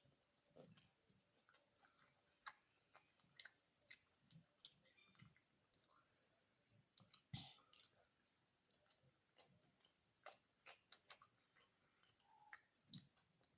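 Faint, scattered wet mouth clicks and smacks of someone chewing a mouthful of beef biryani close to the microphone.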